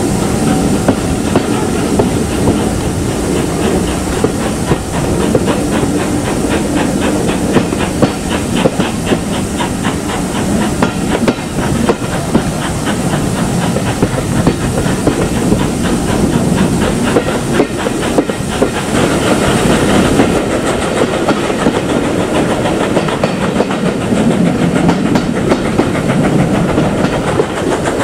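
Steam-hauled train running, with a steady hiss of steam and the clickety-clack of wheels over the rail joints.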